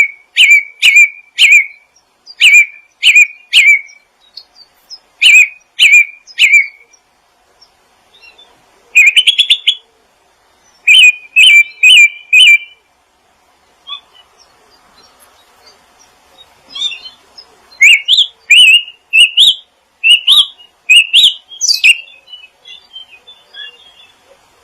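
Songbird chirping in short, sharp notes, mostly in runs of three or four, with a quick rattling trill about nine seconds in and a run of rising notes near the end.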